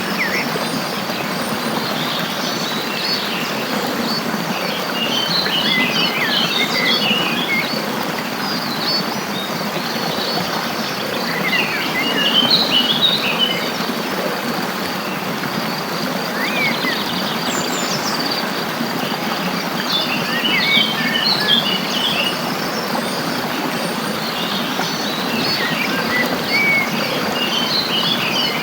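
Small songbirds chirping and twittering in short bursts every few seconds over a steady background hiss.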